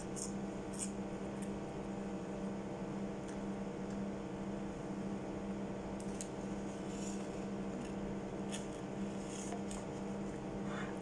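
Close-up eating sounds of someone chewing french fries and a chicken burger: a few short, soft wet mouth clicks scattered through, over a steady low appliance hum.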